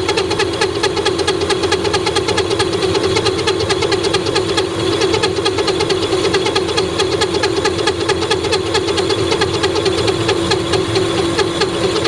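Old Monarch engine lathe running under a cut: a steady hum with a rapid, even pulsing.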